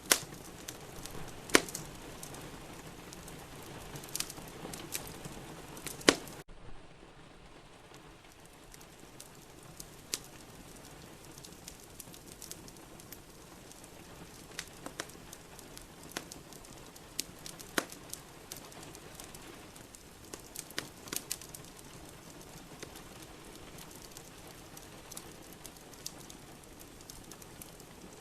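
Wood fire in a fireplace crackling, with scattered sharp pops, over a steady hiss of rain. About six seconds in the background hiss drops suddenly and the pops continue, more sparsely.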